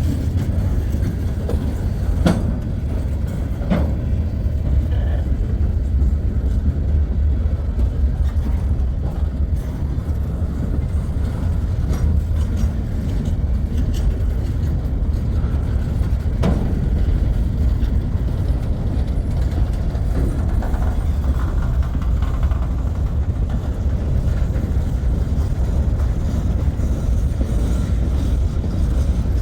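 Freight train cars rolling past on steel rails: a steady low rumble with a few sharp clicks.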